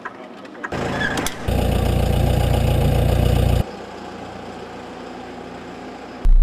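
Helicopter turbine engine and rotor running, heard in several short segments that cut in and out abruptly, loudest with a heavy low rumble from about a second and a half in to past three and a half seconds.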